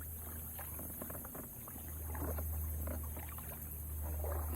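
Quiet water sounds of a small boat moving on a creek: faint scattered splashes and drips over a steady low rumble.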